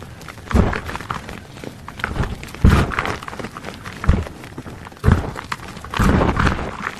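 Plain gym chalk being crushed: about five gritty crunches with crumbling in between. The loudest crunch comes a little before the middle.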